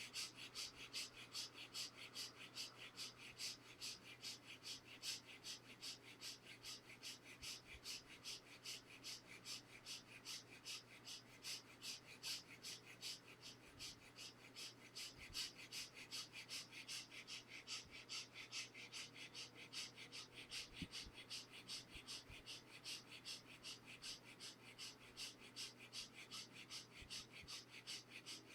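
Fast, short, forceful breaths through the nose, faint and evenly paced at about three a second. This is the quick chest-breathing stage of a pranayama exercise.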